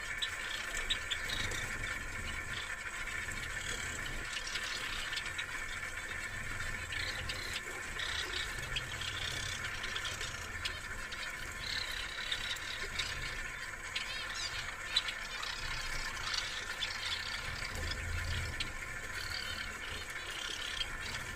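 Pet birds chirping and twittering in short, scattered calls over a steady background hum.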